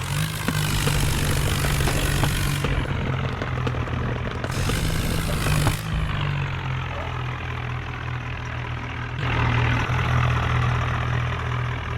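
Tractor's diesel engine running steadily, with a higher hiss that fades out and comes back a few times.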